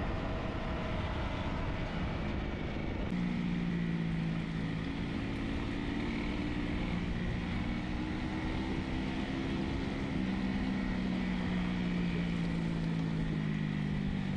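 Wind rush over a motorcycle engine while riding; then, after an abrupt change about three seconds in, a dual-sport motorcycle engine running steadily on a gravel trail at low speed. Its note steps up a little about ten seconds in and eases down near the end.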